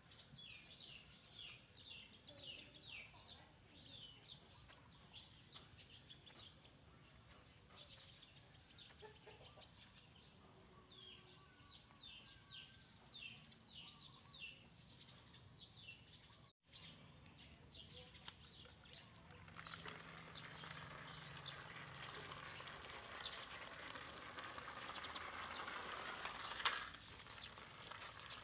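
Faint bird chirping: a run of short, high, falling chirps, several a second, through the first half. After a break, a faint steady hiss builds in the second half, with a couple of light clicks.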